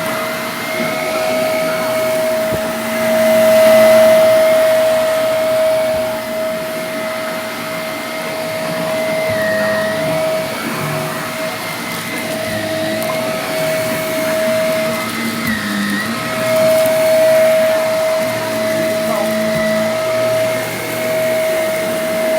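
Vacuum cleaner running steadily with a high motor whine, its pitch dipping briefly a couple of times.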